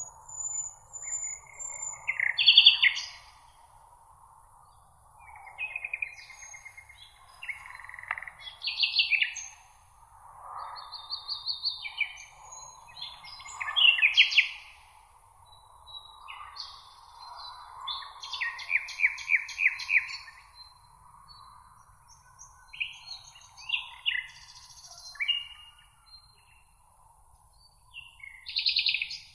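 Several songbirds singing in a meadow, one short chirped or trilled phrase after another with brief gaps, over a faint steady high hiss.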